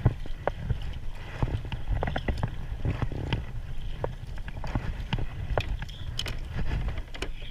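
Irregular knocks and clicks on a kayak, over a steady low rumble on the microphone.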